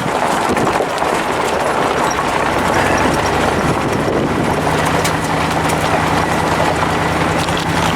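A vehicle driving on a rough country road: steady road and engine noise, with a low, even engine hum settling in about halfway through.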